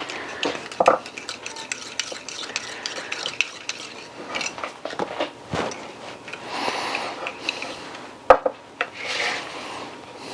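A spoon stirring baking soda into a little water in a small dish, with quick ticks and clinks of the spoon against the sides and a few swishing stretches. A single sharp knock stands out late on.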